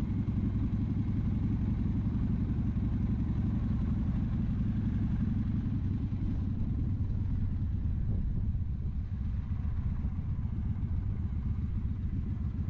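2007 Victory Vegas V-twin motorcycle engine running steadily while riding.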